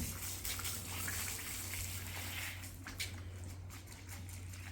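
Running water splashing, strongest for the first two and a half seconds and then dying down, over a steady low hum.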